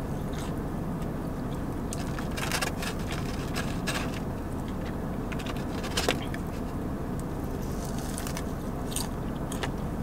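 Close-up chewing and crunching of a breaded fried chicken finger, with scattered crisp clicks and a sharper one about six seconds in, over a steady low hum.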